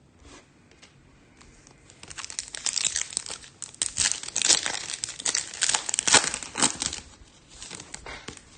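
Foil wrapper of a 2022 Topps Chrome F1 hobby pack being torn open and crinkled by hand: a dense run of crackling that starts about two seconds in and dies down about seven seconds in.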